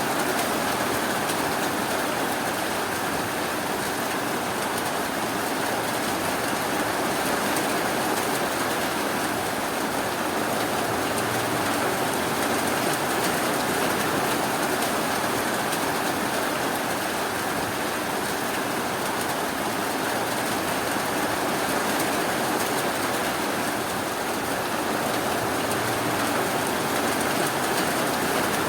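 Rain falling steadily: a dense, even hiss that holds the same level throughout, with no breaks or sudden sounds.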